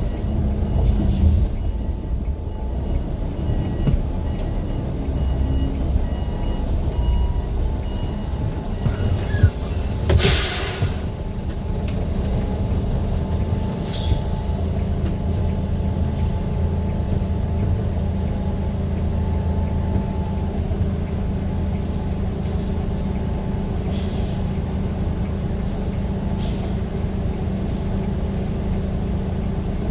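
Motor vehicle running steadily with a low rumble. A loud burst of hiss lasts about a second some ten seconds in, and a shorter one follows about four seconds later.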